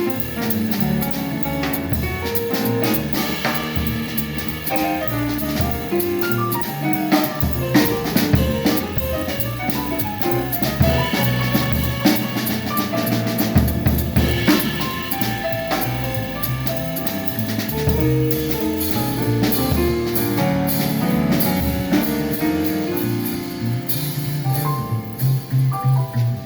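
Live jazz quartet playing, the drum kit prominent with snare and cymbal strokes over moving bass notes and higher pitched melody notes.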